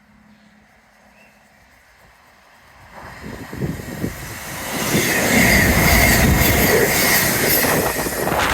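A train approaching and passing at speed. It is faint at first, builds about three seconds in, and is a loud rush of wheels on rail for the last few seconds, with a steady high whine on top.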